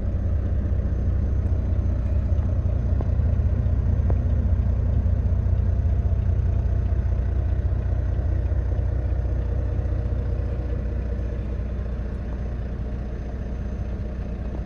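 Semi-truck's diesel engine idling steadily with a deep, even rumble.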